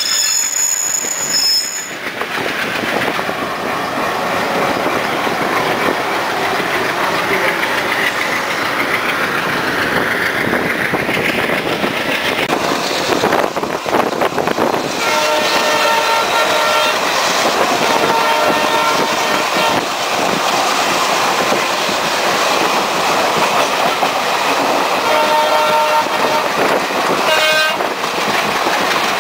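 Steady running noise of a moving passenger train's wheels and coach, heard from its open door. Several blasts of a diesel locomotive horn sound in the second half.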